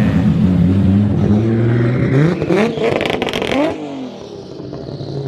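Car engine idling, then revved once: the pitch climbs for about a second and a half and drops back toward idle.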